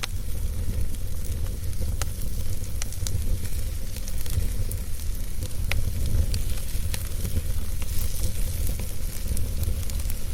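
Wood fire burning in a fireplace: a steady low rumble and hiss with scattered sharp crackles and pops.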